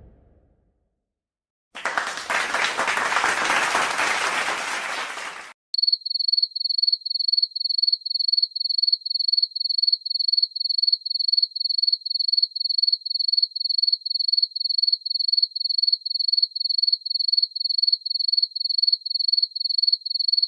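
A stock clapping sound effect: a crowd applauding for about four seconds, stopping abruptly. Then a stock crickets sound effect: steady, even chirping on one high pitch, about two chirps a second.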